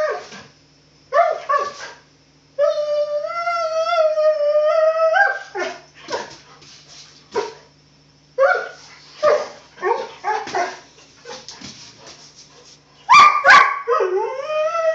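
A playful dog yipping and whining in a run of short high cries, with one long wavering whine lasting nearly three seconds that starts a few seconds in.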